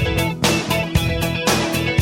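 A band playing a rock song with guitars and a steady drum beat.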